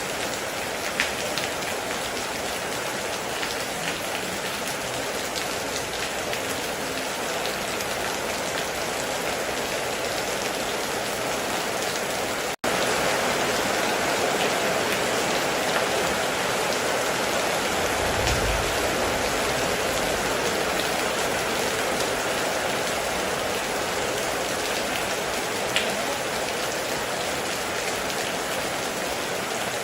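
Heavy rain falling steadily, with a few sharper drops standing out. About halfway the sound cuts out for an instant and returns slightly louder, and a short low rumble comes a few seconds later.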